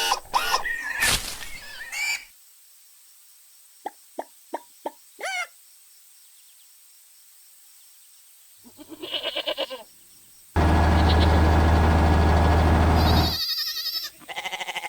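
A string of cartoon sound effects: a few short, falling plops, then a loud, steady low buzz lasting about three seconds, followed by chirpy warbling.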